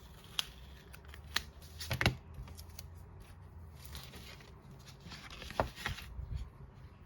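Hands handling album packaging and photocards: scattered sharp clicks and taps with light rustling between them, the loudest about two seconds in.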